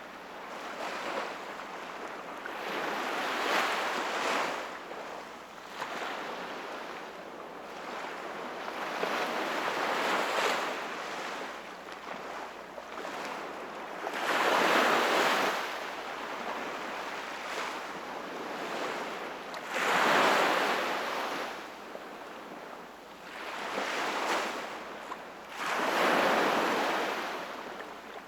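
Sea waves breaking and washing in, swelling and ebbing about every five to six seconds, with the strongest surges about halfway through and near the end.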